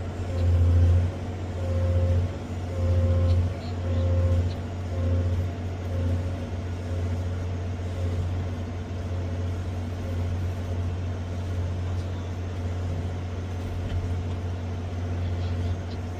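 Cat 385C excavator's diesel engine and hydraulics heard from inside the cab under working load, a deep drone that swells and eases about once a second for the first several seconds, then holds steady.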